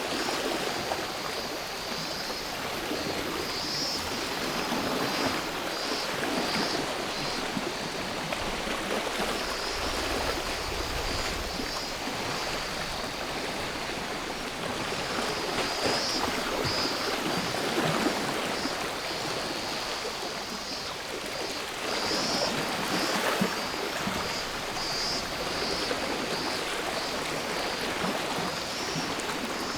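Sea waves washing ashore in a steady rush that swells now and then, with cicadas buzzing in a high band that pulses on and off.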